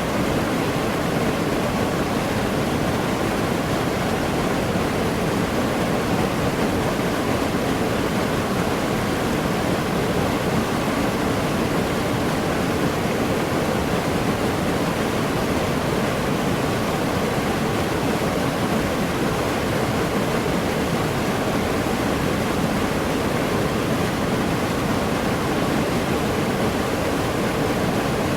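Waterfall in a tropical forest: falling water makes a steady, even rush that does not change.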